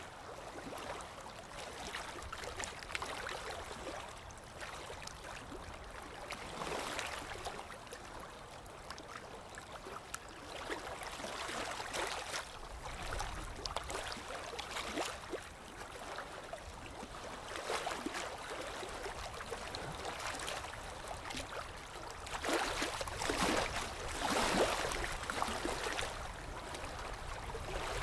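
Moving water splashing and gurgling in irregular swells, with a run of louder splashes near the end.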